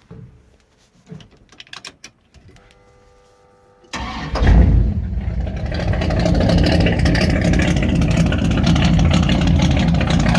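Clicks and a brief steady hum, then the car's Pontiac 400 V8, with Ram Air III heads and an 068 Ram Air III camshaft, cranks and fires about four seconds in with a loud burst of revs. It then settles into loud, steady running at idle.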